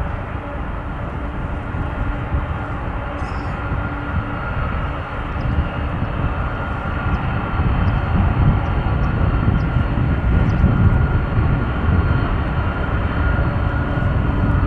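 Boeing 747-400 freighter's jet engines running: a steady, dense rumble with a faint held whine, growing somewhat louder over the second half.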